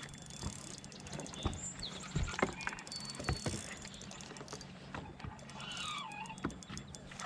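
Small fishing boat on the water: a steady low hum with scattered light knocks and clicks of gear against the hull, and a few faint high chirps.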